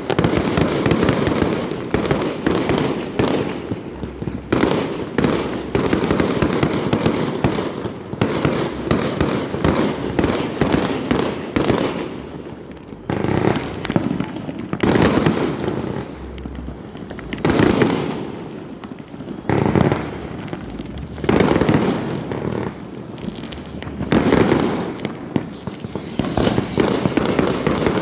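Fireworks going off in a near-continuous barrage of bangs and crackling that swells and eases in waves. About two seconds before the end, a high whistle joins in, falling in pitch and then holding steady.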